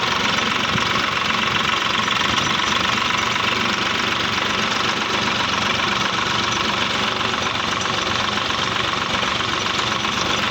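Swaraj 855 tractor's three-cylinder diesel engine running steadily while it pulls a cultivator across the field.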